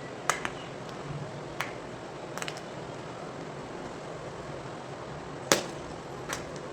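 Block of gym chalk crunching and cracking as it is twisted and crushed by hand. There are a few separate sharp cracks, the loudest about five and a half seconds in, over a steady hiss.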